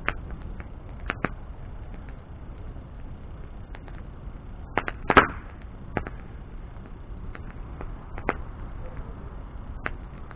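Wood bonfire burning with a steady low rush and scattered sharp crackles and pops, the loudest cluster of cracks about five seconds in.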